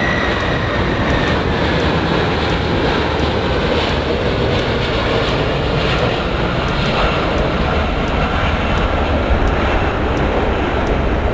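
Airplane engine noise: a steady, loud rush with a faint high whine that slowly falls in pitch early on.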